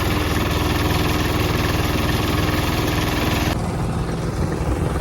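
Hand tractor (two-wheel walking tractor) engine running steadily with a rapid chugging. About three and a half seconds in the sound changes abruptly, its high hiss dropping away while the engine carries on.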